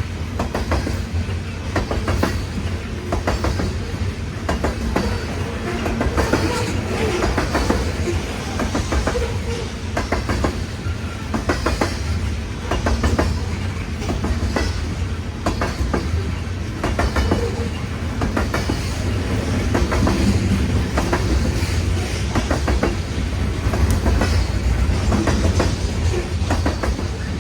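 Loaded coal hopper cars of a long freight train rolling past, their wheels clicking over rail joints again and again above a steady low rumble.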